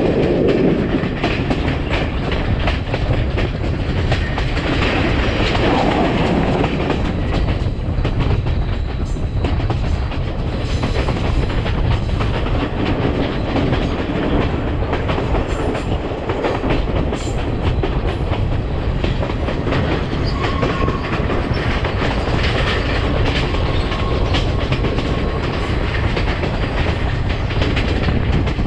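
Train running on the track: a steady rumble with the wheels clicking rhythmically over rail joints.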